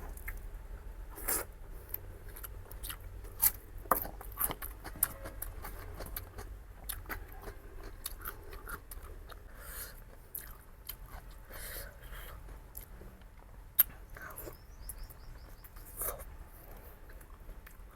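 Close-miked eating of masala pork chops: irregular wet chewing and smacking, with a few sharper bites standing out.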